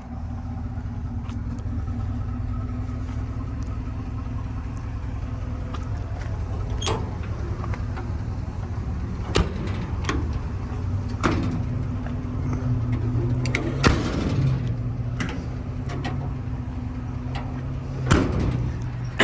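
Ford F250's 6.2-litre V8 gasoline engine idling steadily, with about ten sharp clunks and clicks of doors and latches in the second half.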